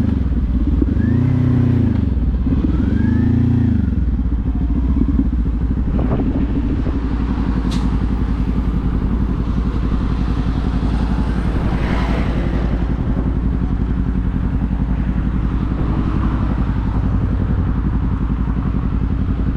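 Kawasaki Z400 parallel-twin engine. Its revs rise and fall twice in the first few seconds, then it runs at a steady pitch.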